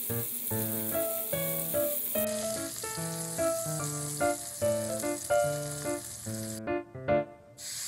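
Starch-coated tofu slices wrapped in laver sizzle as they pan-fry in oil, a steady frying hiss that cuts off abruptly near the end, under light background music.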